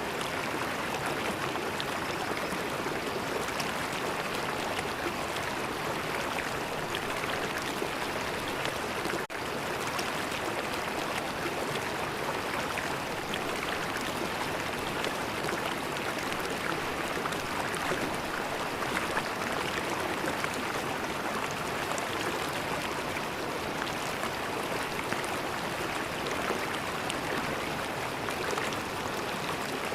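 River water flowing, a steady even rush of water noise, with a momentary dip in level about nine seconds in.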